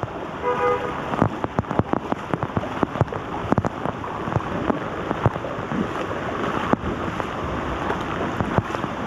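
Heavy rain pouring onto flood water and cars, with many sharp raindrop ticks close to the microphone, and flood water splashing around wading legs.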